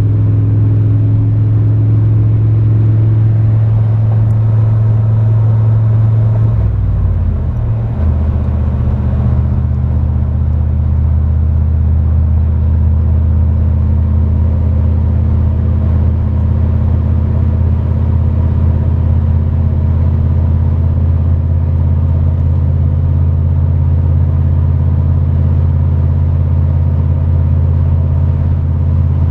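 1993 Chevrolet 1500 4x4 pickup's engine running steadily while driving; about seven seconds in its pitch drops, then holds steady at the lower pitch.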